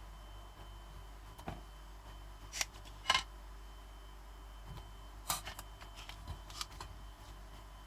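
Wet paper pulp being pressed in a cut-down 20 ml plastic syringe with pricked holes to squeeze out the water and form small fire-starter briquettes: a handful of short handling noises at uneven gaps, the loudest about three seconds in.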